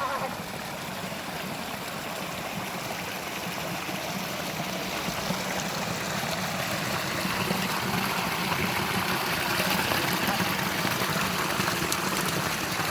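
Steady rushing noise of heavy rain and running rainwater, growing slowly louder.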